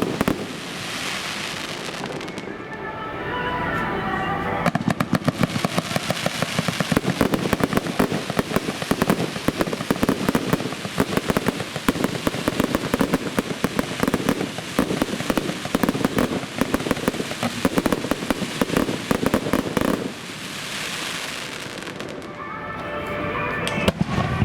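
Fireworks going off in a long, dense barrage of rapid crackling pops, with a short lull near the end.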